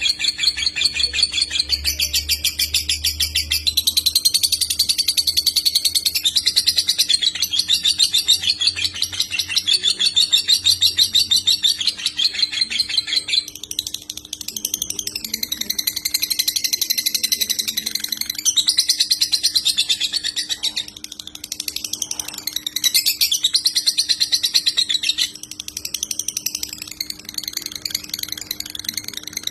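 Lovebird singing a long, rapid, nonstop chattering song of the 'konslet' kind, a dense high trill that barely pauses, easing off briefly a few times in the second half. A faint steady hum lies underneath.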